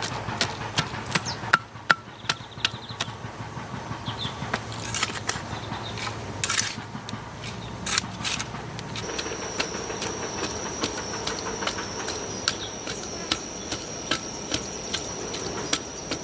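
Irregular sharp knocks and clicks. About nine seconds in, a steady high whistling tone starts and keeps on under them.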